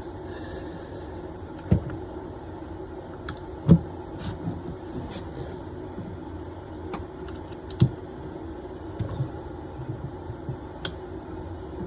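Pliers gripping and wiggling a tight compression fitting on a toilet supply pipe: scattered sharp metallic clicks and knocks a few seconds apart, over a steady low hum.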